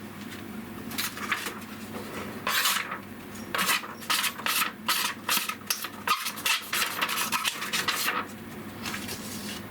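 Steel kitchen knife blade being stroked back and forth on the side face of a Shapton Kuromaku #1000 whetstone: a series of short rasping scrapes, coming faster in the middle and stopping about eight seconds in.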